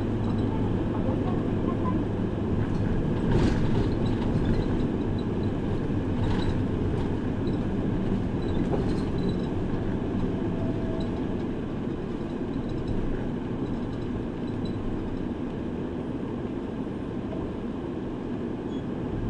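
Route bus running on the road, heard from inside the cabin: steady engine and road noise, with a couple of short rattling clicks a few seconds in.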